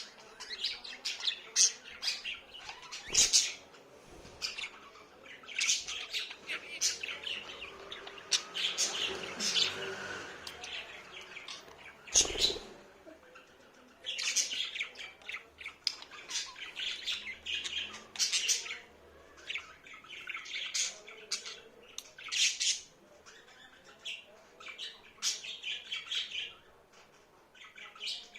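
Pet budgerigars chirping and warbling in quick, broken runs of short notes, with a few sharp squawks and a couple of knocks.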